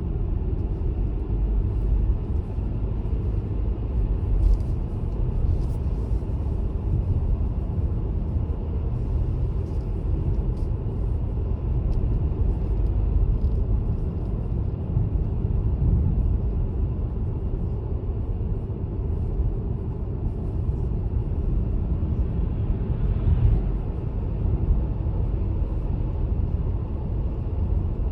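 Car driving along, a steady low rumble of engine and tyre road noise.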